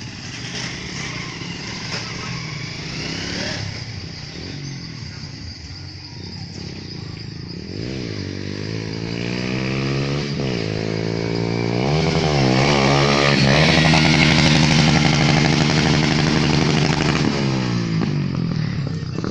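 Motorcycle engine running and being revved: its pitch rises and falls several times, then it grows louder and holds a steady higher pitch before easing off near the end.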